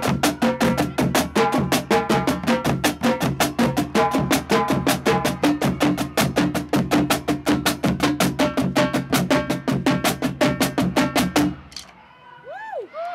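Marching drumline playing a fast, dense cadence on snares, pitched tenor drums and bass drums, cutting off together near the end. A few whoops from the crowd follow right after the cutoff.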